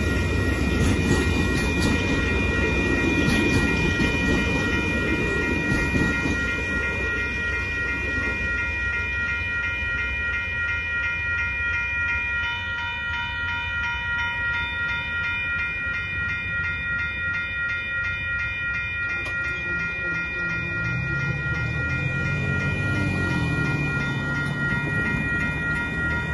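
Amtrak Texas Eagle passenger train running past over a grade crossing, loudest in the first six seconds and then fading, while the crossing bell keeps ringing steadily with the signals flashing. Near the end a road vehicle's engine is heard as traffic starts across the tracks.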